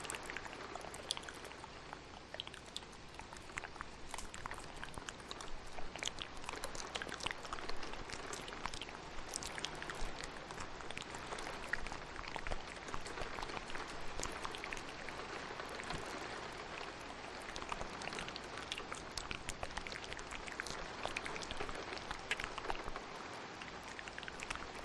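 Steady rain with many small wet clicks and pops of ASMR mouth sounds layered over it.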